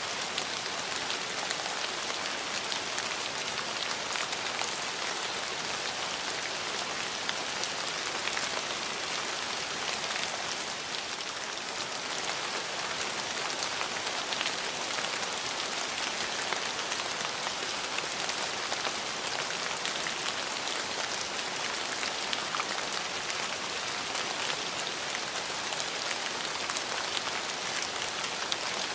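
Steady rainfall, an even hiss with many small drop ticks pattering on surfaces.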